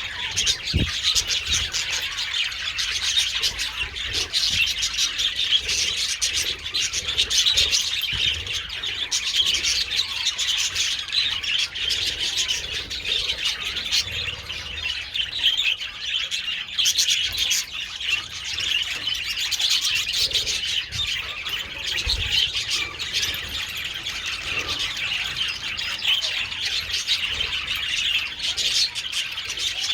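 A colony of budgerigars chattering continuously, many high, overlapping warbles and chirps with no pause.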